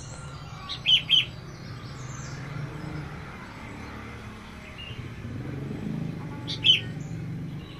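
Small bird chirping: two short, high chirps close together about a second in and one more near the end, over a steady low hum.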